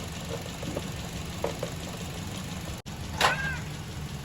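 Toyota Corolla GLi engine idling steadily with its tappets freshly adjusted. About three seconds in, a short high-pitched cry rises and falls in pitch over the engine.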